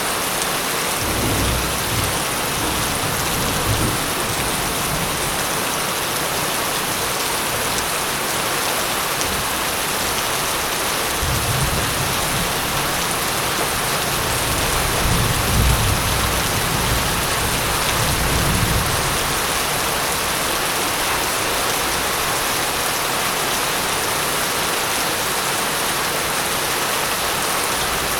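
Steady rain falling, a constant even hiss, with thunder rumbling twice: briefly near the start and in a longer roll through the middle.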